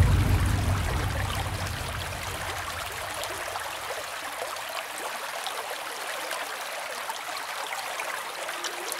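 Running-stream sound effect: a steady babble of flowing water, as background music fades out over the first two or three seconds.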